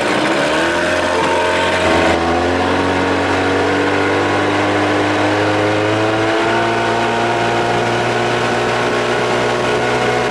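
Evinrude 25–30 hp two-stroke outboard motor running steadily under way. Its pitch steps up about two seconds in, then climbs slowly.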